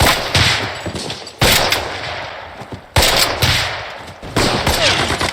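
War-film battle gunfire from WWII-era small arms: four loud shots about a second and a half apart, each with a long echoing tail, and lighter shots between them.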